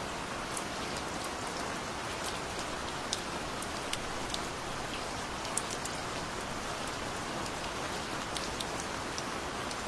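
Steady gentle rain falling, a constant patter with scattered individual drops ticking sharply on a surface.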